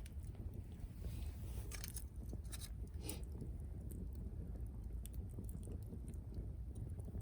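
Wood fire burning, crackling with scattered sharp snaps over a low steady rumble.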